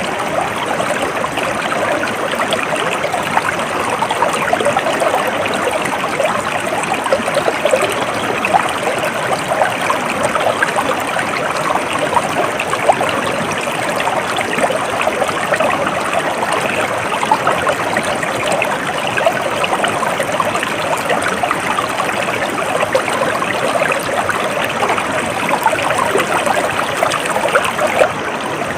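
Stream water flowing and trickling steadily, a continuous babbling.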